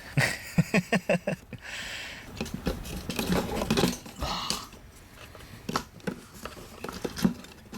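A quick run of about eight small metallic clicks in the first second and a half, then scattered knocks and rattles of metal parts and tools being handled.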